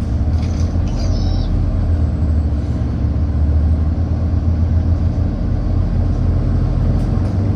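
City bus engine running with road noise, heard from inside the passenger cabin as a steady low rumble.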